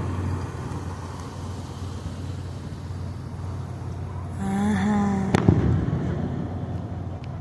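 One firework bang about five and a half seconds in, over a steady low hum. Just before the bang comes a short, steady, held tone.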